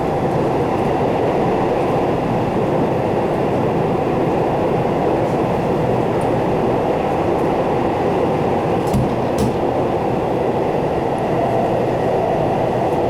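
Keihan Electric Railway commuter train running at speed, heard from inside the passenger car: a steady rumble of wheels and motors, with a couple of brief clicks about nine seconds in.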